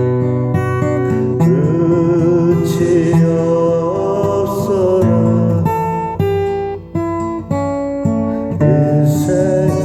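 Acoustic guitar strumming chords, with a voice singing a melody over it in two phrases, the second starting near the end.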